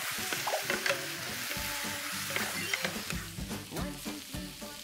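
Minced garlic and vegetables frying in oil in a pan, sizzling steadily as a wooden spatula stirs them, with scattered light scraping clicks.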